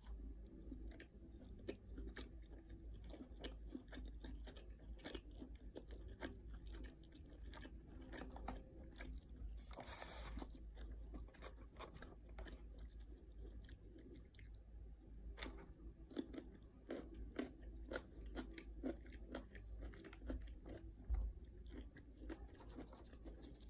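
A person chewing crispy fried chicken: many small crunches and wet mouth clicks, with occasional bites.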